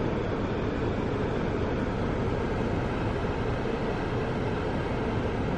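Steady rumble and road noise of a car in motion, heard from inside the cabin.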